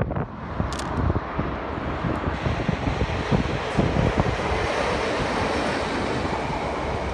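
A train running past on the rails: a steady rumble and rush of wheels and wagons.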